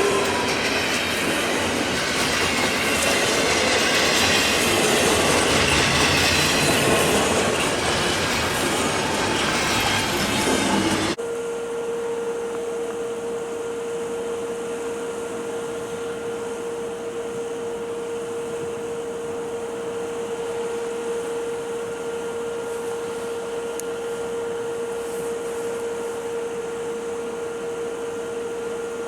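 Freight train cars rolling past with wheel squeal and clatter. About eleven seconds in it cuts off abruptly to a quieter steady hum holding one even tone.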